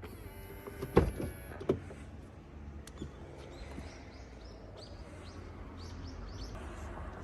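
A small electric motor on the car whines for about a second and a half, with two sharp clicks. Then birds chirp repeatedly over a low steady background hum.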